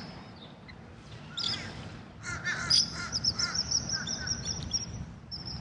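A bird calling: one short call about a second and a half in, then a fast run of repeated high chirps from a little past two seconds to about five seconds in.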